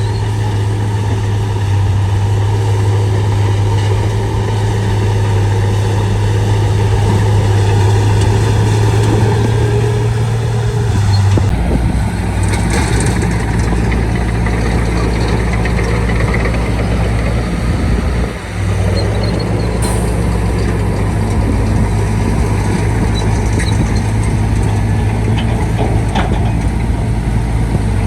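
Shantui D95 bulldozer's diesel engine running steadily with a deep hum; the engine note shifts lower and heavier about eleven seconds in, and it dips briefly around eighteen seconds.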